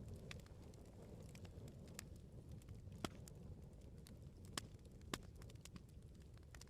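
Bonfire crackling: a low, steady rumble of burning wood with scattered sharp snaps and pops, three louder pops in the middle.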